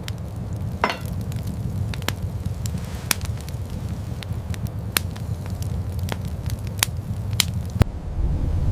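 Wood fire crackling, with sharp pops scattered a few times a second over a steady low rumble. Near the end the crackling stops and a deeper low rumble takes over.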